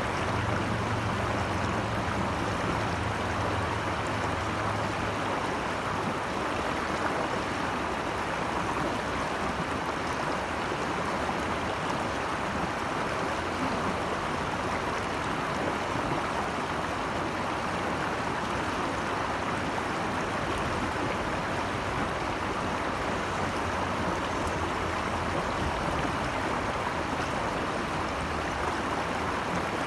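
Steady rush of flowing water from a stream or cascade, with a low rumble underneath in the first few seconds.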